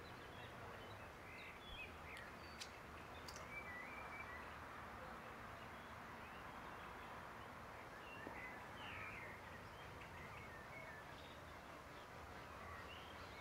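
Faint birdsong: scattered short chirps over a steady outdoor hiss, with two sharp clicks a few seconds in.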